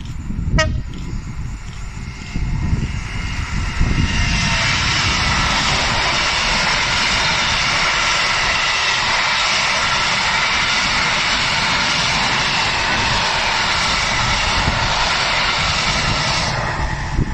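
A Class 66 diesel freight locomotive passes close by, its engine sound building over the first few seconds. It is followed by a long, steady rumble and hiss of hopper wagons rolling over the rails, which cuts off sharply near the end.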